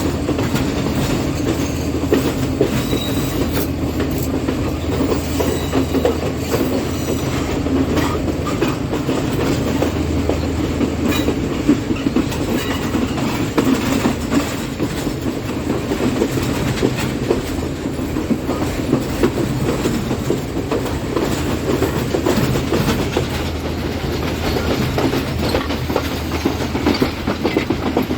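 Diesel passenger train running along the line, its wheels clacking over rail joints in irregular clicks above a steady engine drone.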